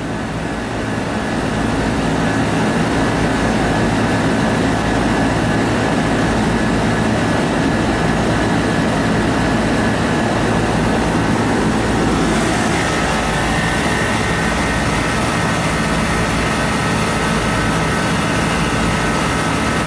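Carrier Gemini split-system condensing unit running: a steady fan rush over a low compressor hum, with a higher steady whine joining about twelve seconds in. The unit is being charged with refrigerant while running, still short of charge, with its sight glass flashing.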